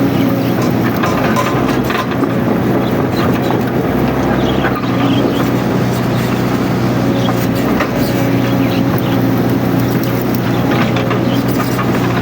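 Mini excavator's diesel engine running steadily under working load, with a faint whine that comes and goes and scattered clicks and knocks.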